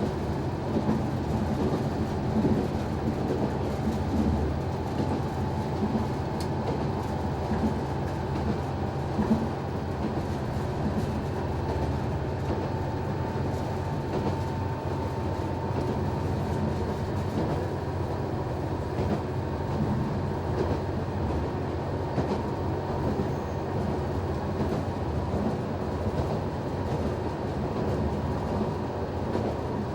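NoTo Railway NT100 diesel railcar running at speed, heard from the driver's cab: a steady engine and running drone with occasional knocks from the wheels over rail joints.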